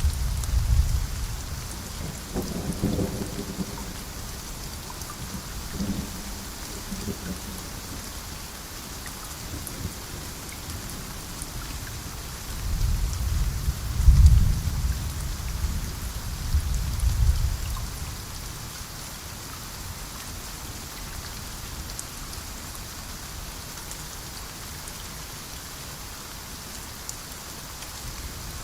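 Steady rain with rolling thunder: a short rumble at the start, fainter rumbles a few seconds in, and a longer, louder roll about halfway through.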